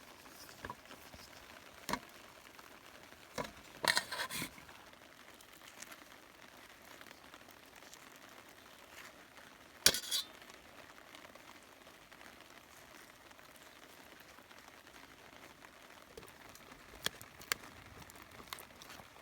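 A few scattered knocks and clinks, the loudest about ten seconds in and a short cluster about four seconds in, over a faint steady hiss.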